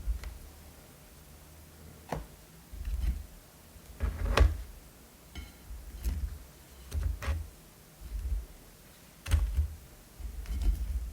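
Close-miked eating: a person chewing and biting, with about eight irregular bursts of crisp clicks and wet mouth sounds, each with a deep thump, roughly a second apart.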